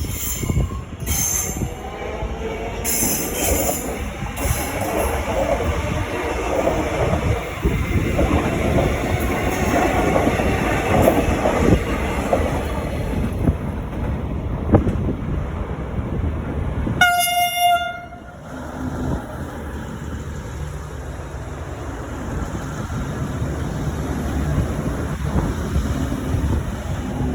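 V/Line VLocity diesel multiple unit running into a station, its wheels and engines loud, with high-pitched squeals in the first few seconds. About 17 seconds in, a single clear tone sounds for about a second. After that the train is quieter, with a steady low engine hum.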